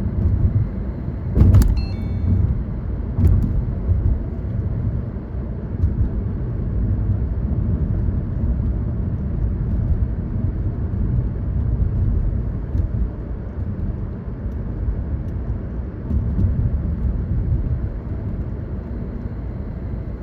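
Steady low rumble of a car driving along a road, tyre and engine noise, with a sharp knock about a second and a half in and a lighter tick shortly after.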